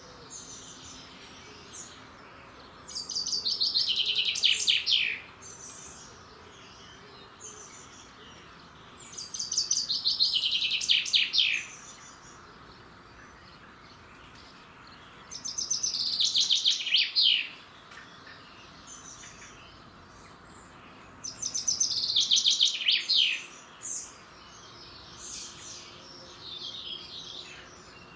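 A songbird singing the same song about every six seconds: each song is a quick run of notes about two seconds long that falls in pitch towards the end. Fainter chirps from other birds come in between.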